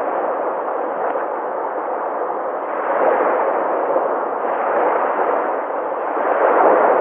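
Sea waves washing in as a steady rushing surf, swelling louder three times, the last and loudest swell near the end.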